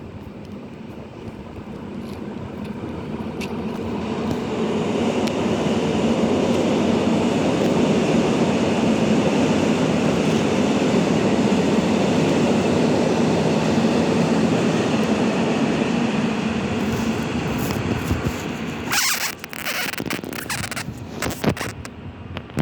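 Train passing close by: a rumbling roar that builds over the first several seconds and holds steady for about twelve seconds. Near the end it breaks up into irregular buffeting noise on the microphone.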